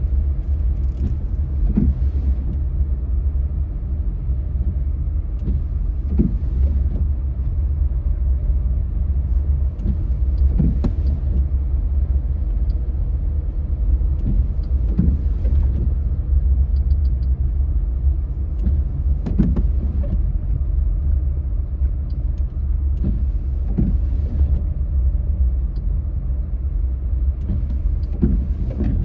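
Vehicle driving off-road on a rough dirt track, a steady low rumble with knocks and rattles every few seconds as it goes over bumps.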